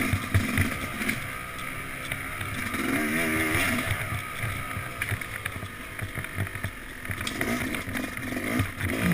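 Yamaha YZ250X two-stroke single-cylinder engine running at low, varying revs while riding, with a brief climb in revs about three seconds in.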